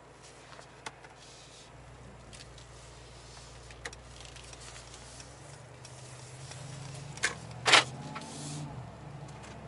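Mercedes-AMG G63's twin-turbo V8 heard from inside the cabin, running low and quiet as the SUV pulls away at low speed, growing a little louder and higher. A few light clicks, and one sharp knock about eight seconds in, the loudest sound.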